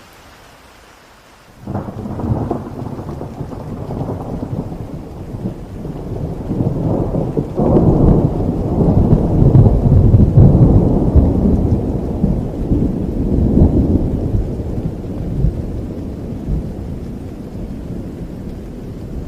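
Steady rain hiss, then a sudden loud roll of thunder breaks in under two seconds in. It swells again near the middle and then slowly rumbles away.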